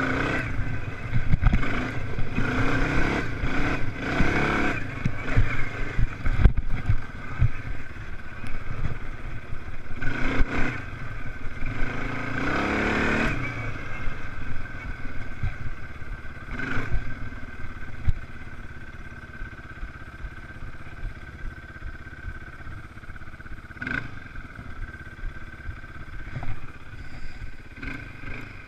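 Motocross bikes racing past, their engines revving up and down in repeated loud passes. The passes are loudest in the first half and thin out after about 18 s to fainter engine noise, with one more pass near 24 s.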